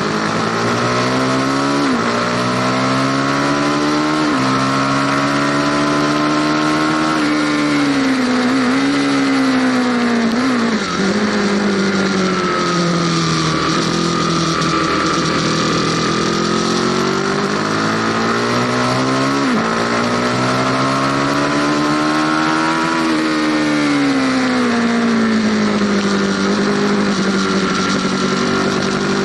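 Aprilia Tuono V4 Factory engine under way with wind rush. The engine note climbs through the revs and drops sharply at each upshift, several shifts in a row. In between it eases off and falls on deceleration, then pulls up again.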